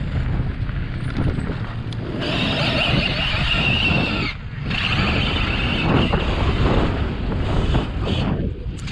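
Motor vehicle noise over a steady low rumble. A higher hissing band comes in about two seconds in and drops out briefly twice, near the middle and near the end.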